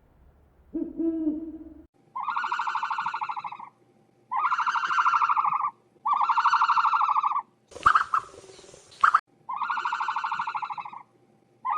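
A farm animal giving repeated long, even, bleat-like calls, each about a second and a half with a quavering pulse, after a shorter lower call about a second in. A brief burst of noise comes between the third and fourth long calls.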